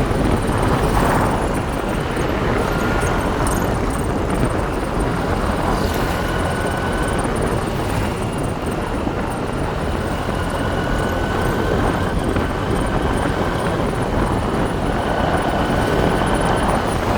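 Motorbike riding along, its engine running steadily under heavy wind rush on the microphone, with a faint steady whine.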